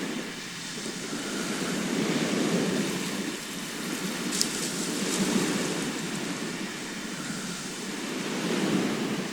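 Sea waves washing onto a shore, a steady wash that swells and eases about every three seconds. One brief sharp tick comes a little before halfway.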